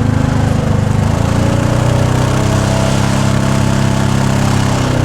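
Arctic Cat 4x4 UTV engine running under load as the vehicle climbs over rocks; the engine note shifts about two seconds in.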